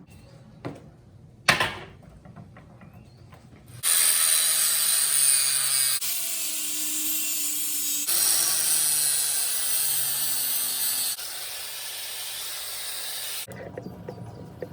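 Two sharp clicks, then a loud, steady, hissing machine noise that starts abruptly about four seconds in. It changes level at several sudden cuts, with a faint low hum sliding down in pitch beneath it.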